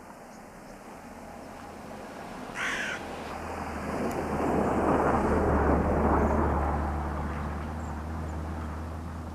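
A crow caws once about two and a half seconds in. Then the engine noise of a passing vehicle swells, peaks in the middle and fades; this is the loudest sound.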